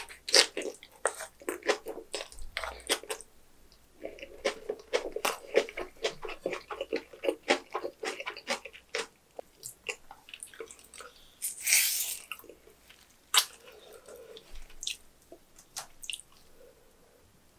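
Close-miked wet chewing of a mouthful of napa cabbage kimchi and rice: a rapid run of squishy, smacking clicks that thins out after about ten seconds. A short, louder hissing burst comes about twelve seconds in, then a few scattered soft clicks.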